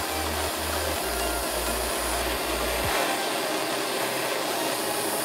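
Handheld blowtorch burning with its flame turned up: a steady, even hiss.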